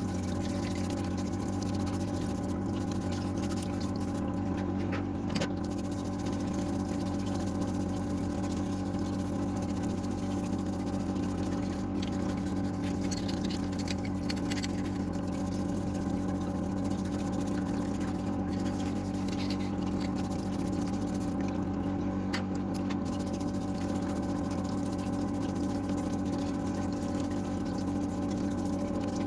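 A steady mechanical hum made of several fixed tones, with no change in pitch or level and a few faint ticks.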